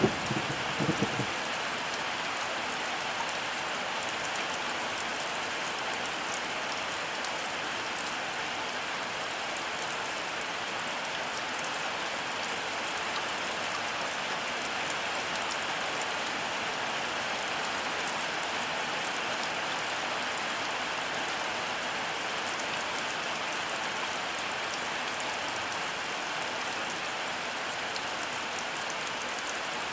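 Heavy rain falling in a steady, even hiss. A low rumble of thunder dies away in the first second or so.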